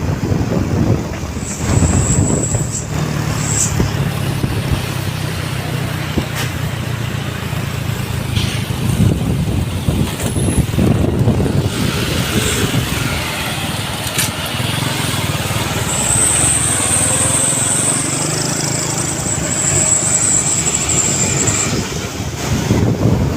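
Mitsubishi Canter truck's diesel engine running steadily while carrying a full load of chillies, with a thin high whine that comes and goes.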